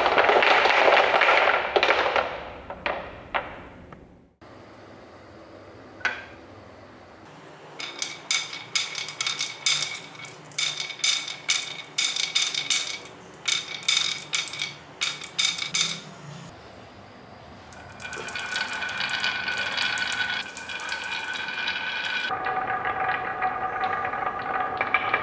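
Spells of rapid clinking and tapping of small hard objects, each strike leaving a bright ringing tone, with longer ringing tones in the last few seconds.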